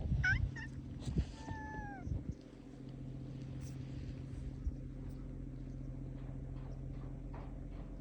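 A cat meowing: a few short cries, then one longer meow that falls in pitch, about a second and a half in. A steady low hum runs underneath.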